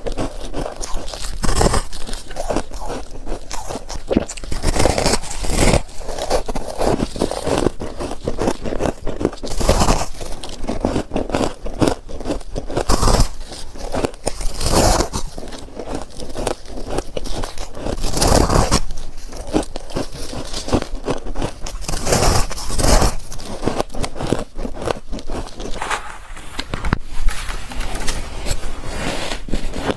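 Close-miked biting and chewing of chunks of freezer frost: crisp crunching and crackling, with a louder bite every few seconds.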